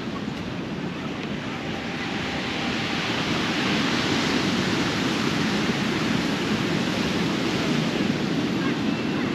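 Sea surf breaking and washing on a beach, the rush of the waves swelling about two to three seconds in and staying strong.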